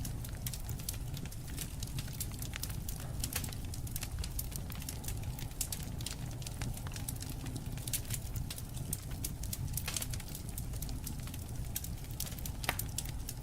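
Campfire burning, wood crackling and popping in irregular sharp snaps over a steady low rumble of flames.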